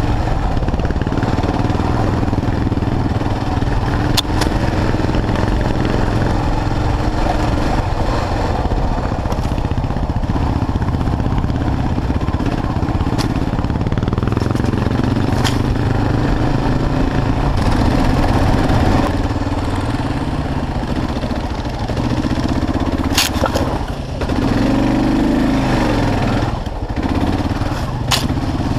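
Kawasaki KLR650's single-cylinder four-stroke engine running at low trail speed, its pitch rising and falling with the throttle, with a few sharp clicks and knocks scattered through.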